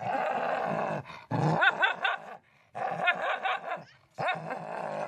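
A dog growling and vocalizing in four short bursts, each about a second long, its pitch bending up and down.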